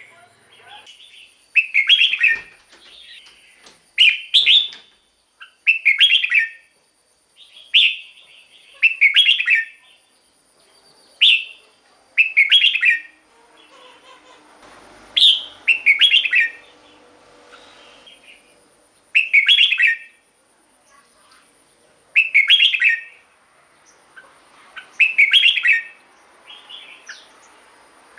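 Red-whiskered bulbul singing: a dozen or so short, loud warbled phrases, each about a second long, with pauses of a second or two between them.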